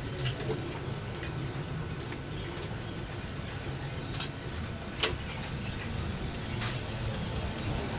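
Tools and metal parts clinking while a motorcycle exhaust is being unbolted: a few sharp metallic clicks, two louder ones around the middle, over a low steady background hum.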